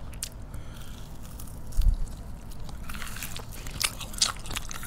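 Biting into and chewing a fried sesame-coated onde-onde close to the microphone: a dull thump about two seconds in, then a scatter of crisp, crunchy crackles in the second half.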